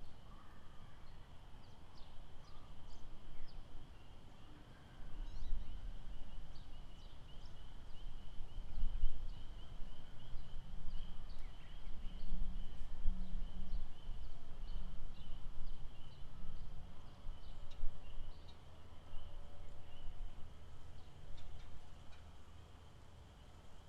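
Lakeside nature ambience: a steady high-pitched trilling chorus with many short bird chirps above it, over a low rumble that swells about five seconds in and eases off near the end.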